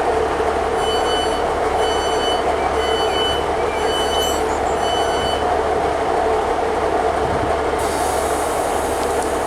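Diesel passenger train standing with its engine running steadily, while a door warning sounds five high beeps about a second apart. A short hiss of air follows near the end.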